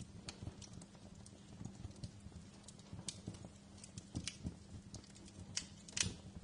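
Wood fire crackling in a fireplace: irregular small pops and snaps, with a sharper, louder pop about six seconds in.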